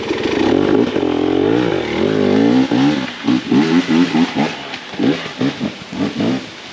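Beta 300 RR two-stroke enduro bike engine revving, its pitch rising and falling. In the second half it switches to a run of quick throttle blips, then settles back down near the end.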